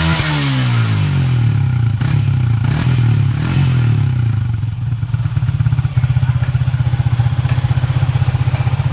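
Yamaha Exciter 150's single-cylinder engine through an UMA Racing aftermarket exhaust, its pitch falling as a rev dies away at the start, then settling about halfway into a steady, evenly pulsing idle.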